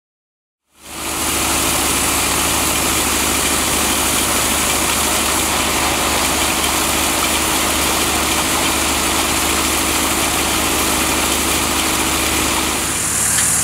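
A large engine running steadily at idle, fading in about a second in, with a low steady hum under a dense mechanical noise.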